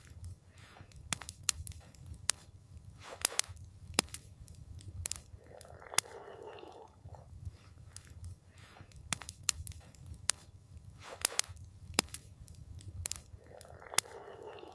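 Campfire crackling, with frequent sharp pops and snaps over a steady low rumble. A softer noise lasting about a second comes twice, about six seconds in and again near the end.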